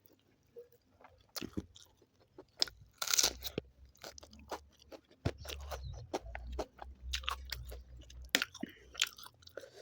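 Close-miked chewing and biting of spicy chicken curry with rice, a run of short irregular mouth clicks, with a louder noisy stretch about three seconds in.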